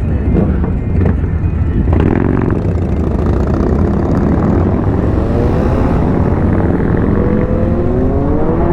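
Motorcycle engines running at road speed, heard from a moving motorcycle over a steady low rumble; from about halfway through, another bike's exhaust note climbs in pitch as it accelerates.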